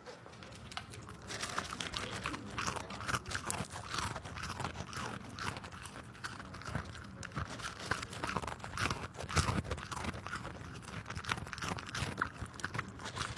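An animal chewing something crunchy: a dense, irregular run of crunches.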